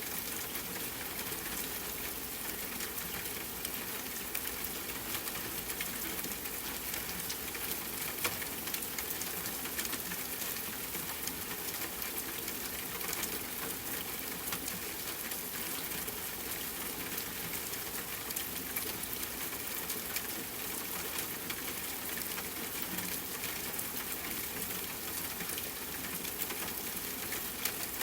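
Steady rain falling with a campfire crackling: an even hiss with many small sharp pops scattered through it.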